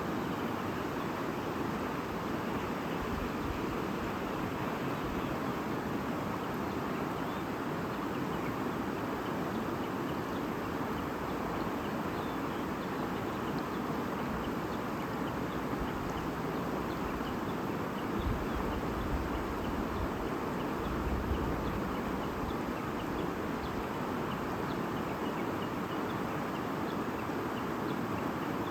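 A babbling stream flowing steadily, with faint short high chirps over it. Two brief low rumbles come about two-thirds of the way through.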